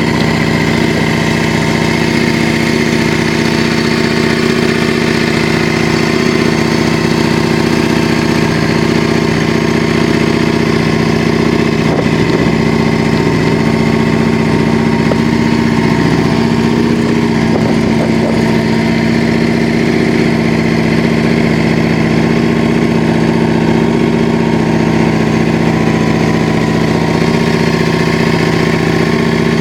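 Yamaha Drag Star 400's air-cooled V-twin idling steadily through a custom aftermarket muffler.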